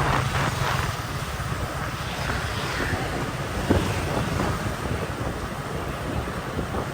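Wind buffeting the microphone on a moving motorbike, over a steady engine and street-traffic rumble, with one brief sharp click about three and a half seconds in.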